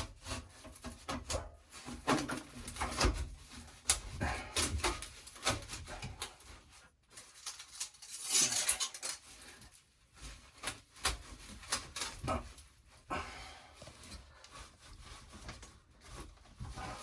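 Metal parts of a gas water heater being handled and fitted back in place: irregular clicks, knocks and scraping as the cover is worked back on, with a longer rough scrape about eight seconds in.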